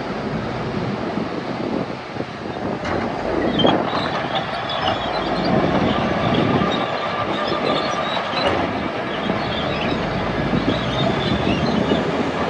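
Crawler bulldozer working soil: its diesel engine runs steadily while the steel tracks clank and squeal.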